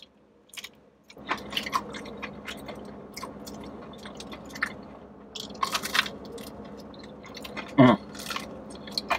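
Close-up biting and chewing of a flaky-crusted 7-Eleven buffalo chicken crunch roll, with many crackly crunches of the pastry crust, the loudest about six seconds in. A brief voiced hum comes near the end.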